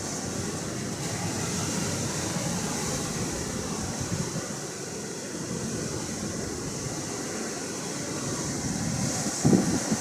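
Steady rush of Atlantic surf and wind, with a hiss on top and a couple of short low thumps near the end.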